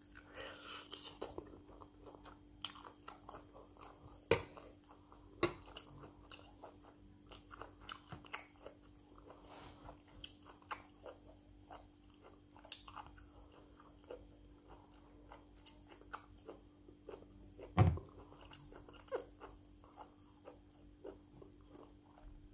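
Close-up eating sounds: biting and chewing a piece of meat with rice and stew, with many small wet clicks and smacks. There is one louder thump about three-quarters of the way through, and a faint steady hum underneath.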